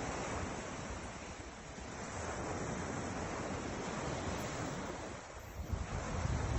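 Ocean surf washing in, swelling and easing. Near the end, wind buffets the microphone with uneven low rumbles.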